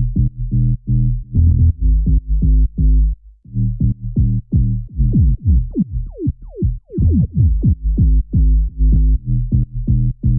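Synth bass from a software synthesizer, layered with a sub-bass, playing short, rhythmic, repeated notes. A pitch envelope gives each note a sharp attack, and in the middle there is a run of notes whose pitch dives steeply downward.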